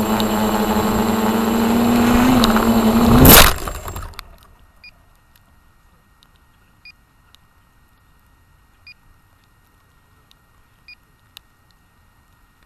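Radio-controlled helicopter running with a steady whine that rises slightly. About three seconds in there is a single loud crack, and the rotor noise dies away within a second, the sign of a crash or hard landing. Short electronic beeps then repeat about every two seconds.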